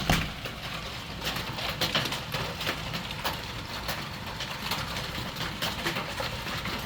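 Hailstorm: hailstones, some bigger than marbles, pelting down with rain, making a steady hiss with many irregular sharp clicks and knocks as they strike.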